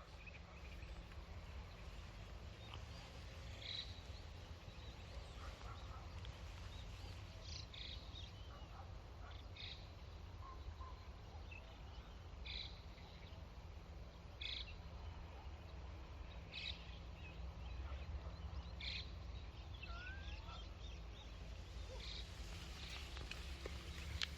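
Short, high animal calls repeated every one to two seconds over a steady low rumble, with one brief rising call about twenty seconds in.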